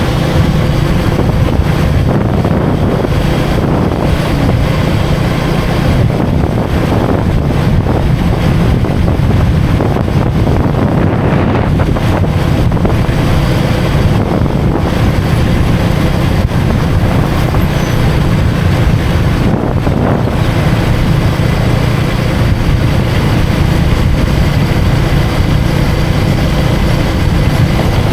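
KTM Duke 250 single-cylinder engine running steadily at riding speed, mixed with wind rushing over the microphone.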